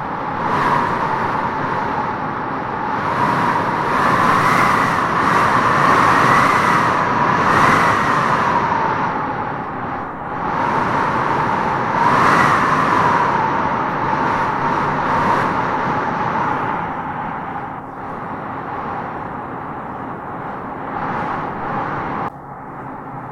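Howling wind gusting through tropical trees: a steady rush with a whistling howl that rises in pitch as the gusts strengthen, swelling about four to eight seconds in and again about twelve seconds in.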